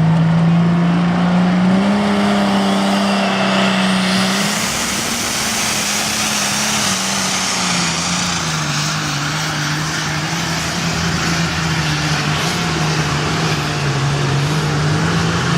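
Pulling truck's engine running hard under load, its pitch stepping up about two seconds in and settling lower a few seconds later, with a loud rushing noise building alongside it from about four seconds in.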